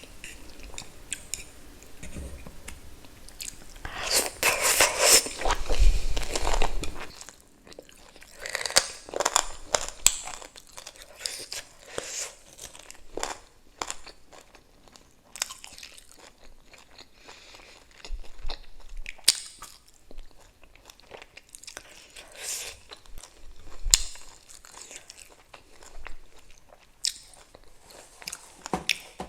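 Close-miked chewing and biting of food, with a loud stretch of crunching a few seconds in, followed by scattered wet smacks and small clicks of chewing.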